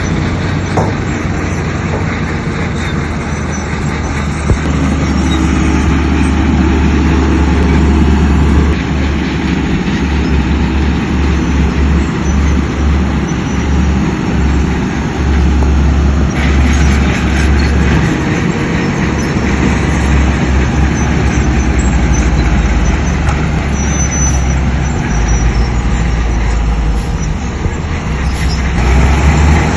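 Heavy diesel earthmoving machinery running steadily, a deep engine rumble with a broad noisy spread of mechanical sound over it, growing louder after about six seconds and again near the end.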